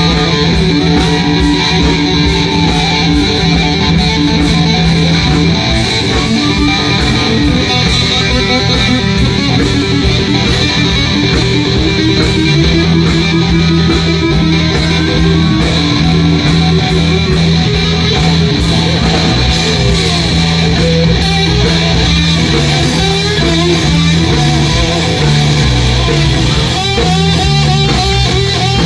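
Live blues band playing an instrumental passage, led by electric guitar over a steady bass line.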